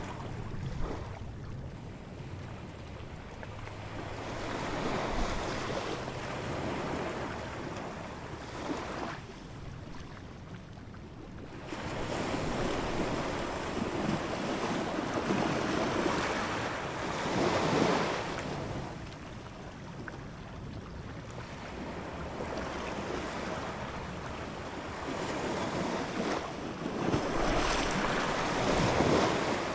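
Ocean surf, waves washing in and drawing back in slow swells that rise and fall every several seconds, the largest about two-thirds of the way in and near the end.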